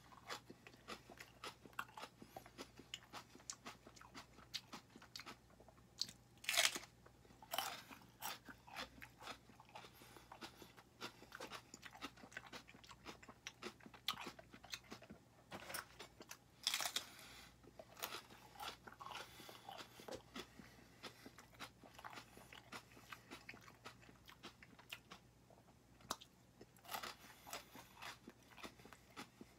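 Close-up chewing of raw chili peppers: a run of short crunches with pauses between them, the loudest about six and a half and seventeen seconds in.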